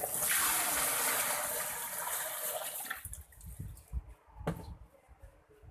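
Water gushing out of a washing machine's drain valve in a sudden rush that eases off after about three seconds. A sharp click follows a little later.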